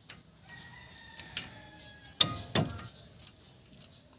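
A rooster crowing faintly in the background, then two sharp metallic knocks about two seconds in, less than half a second apart, from work on the brake parts.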